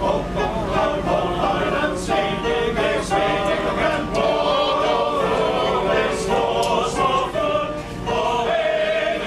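Male chorus singing together, several voices in parts.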